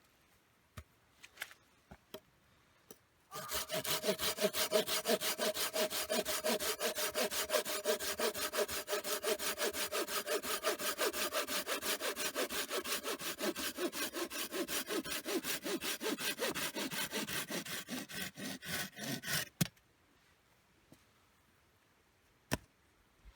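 A hand saw cutting through a piece of firewood in fast, even back-and-forth strokes, starting about three seconds in and stopping a few seconds before the end.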